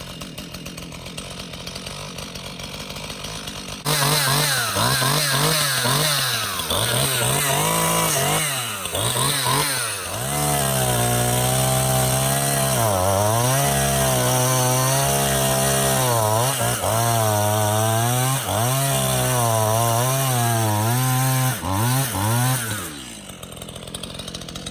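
Stihl MS 171 two-stroke chainsaw idling, then revved up about four seconds in with a few throttle blips. It is then held at full throttle cutting through a pine log, its pitch dipping briefly under load several times, and drops back to idle near the end.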